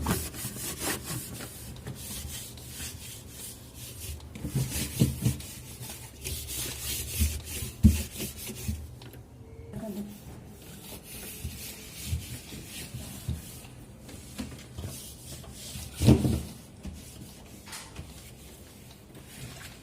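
Dry cloth rubbing over the inside of a fridge in quick, repeated wiping strokes, with a couple of louder knocks, the loudest near the end.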